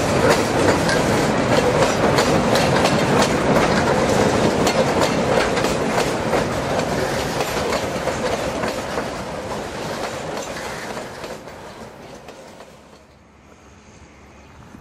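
Freight train of open coal wagons rolling past, a steady rumble with wheels clicking rapidly over the rail joints. The sound fades away as the end of the train passes, and about two seconds before the end it gives way to a faint hush.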